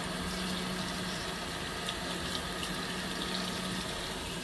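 Fisher & Paykel MW059 top-loading washing machine filling with water at the start of a warm-wash cycle: a steady rush of water pouring into the tub, with a faint steady low hum under it.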